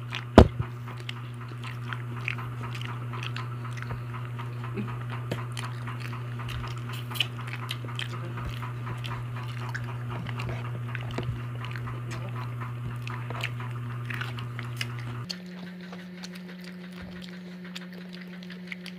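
Several people chewing and biting into grilled barbecue skewers and fish kinilaw, with many short wet clicks and smacks from their mouths. A steady low hum runs underneath and steps up in pitch about fifteen seconds in.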